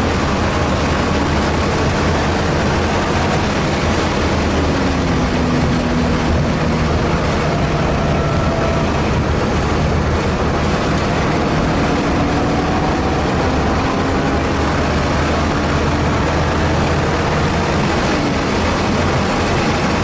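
Car engine and road noise heard inside the cabin at track speed, the engine's pitch slowly rising and falling as the car is driven around the circuit.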